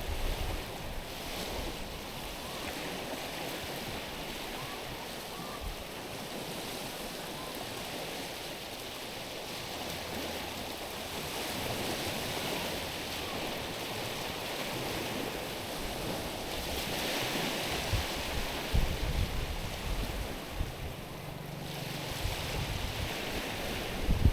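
Small waves lapping and washing over stones and pebbles at the water's edge, as a steady wash with louder surges about halfway and about two-thirds through. Wind rumbles on the microphone now and then near the end.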